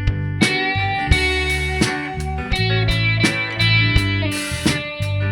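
Rock band playing an instrumental passage: a guitar line of held notes over strummed acoustic guitar, bass guitar and drums keeping a steady beat.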